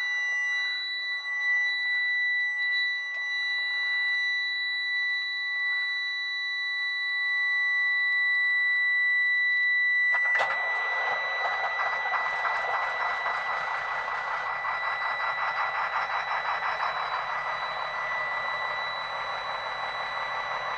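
A dash warning buzzer sounds a steady high tone with the key on. About ten seconds in, the Caterpillar 3126 diesel engine starts with a click and runs with a fast, even low pulse while the buzzer keeps sounding.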